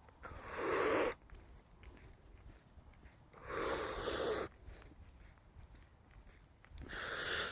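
Three heavy breaths right against the microphone, each about a second long: one near the start, one in the middle and one at the end.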